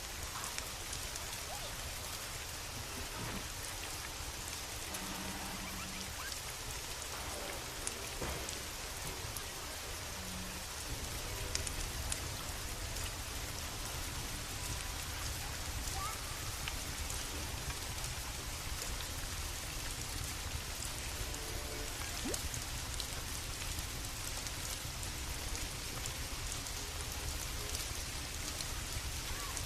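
Steady rain falling, with scattered sharp drip-like ticks; it gets slightly louder about eleven seconds in.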